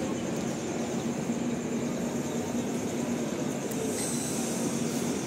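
Passenger train coaches rolling past on the rails: a steady, even rumble of wheels on track with a constant low hum beneath it.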